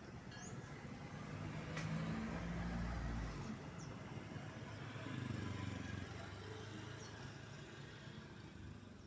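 Road vehicles driving past over the crossing, their engines swelling loudest about two seconds in and again about five seconds in, then fading. A few short chirps sound above them.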